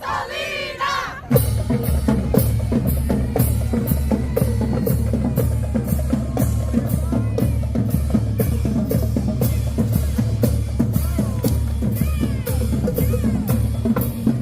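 A marching band playing: the drumline keeps a steady beat of bass drum and snare hits over sustained low brass.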